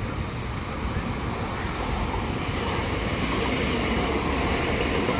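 Electric multiple-unit passenger train approaching and running past on the track, its rumble growing steadily louder through the first few seconds and then holding.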